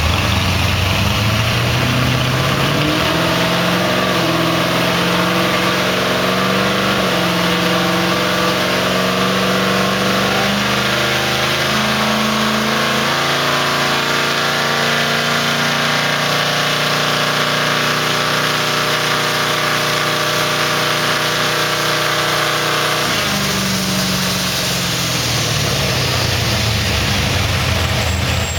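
Chevrolet El Camino's engine and drivetrain under load on a chassis dynamometer during a dyno pull: the engine pitch climbs steadily for roughly the first half, holds high for about ten seconds, then the throttle is cut about 23 seconds in and it winds down.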